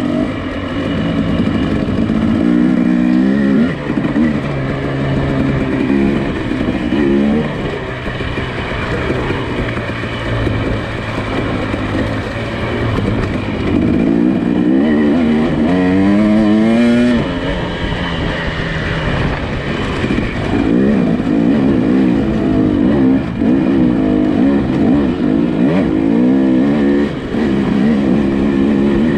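Nissan Pathfinder SUV engine working along an off-road trail. Its pitch rises and falls as the throttle is worked, with a strong climb a little past halfway.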